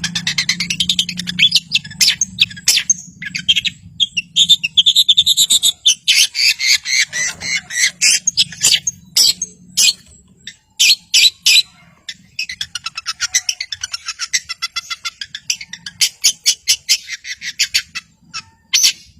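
Long-tailed shrike (cendet) singing: rapid trills of repeated notes mixed with sharp single calls and chatter, with brief pauses about ten and twelve seconds in.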